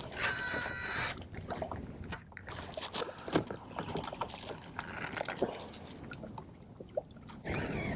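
Water sloshing and trickling around a canoe, with scattered small clicks and knocks. A loud hiss lasting under a second comes at the start, and a steady whirring sound begins near the end.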